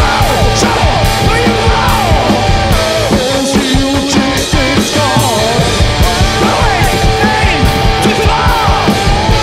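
Live garage-punk rock band playing an instrumental stretch: an electric guitar plays lines that bend and slide in pitch over a fast, steady drum beat.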